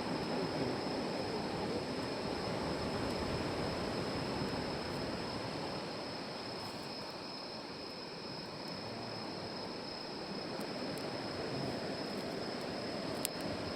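Steady rushing background noise, with a wood campfire giving a few faint crackles and one sharper pop near the end.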